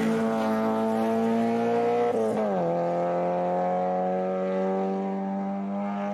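Hillclimb race car engine under hard acceleration, the revs climbing steadily. A quick upshift about two seconds in drops the pitch sharply, then the revs climb again.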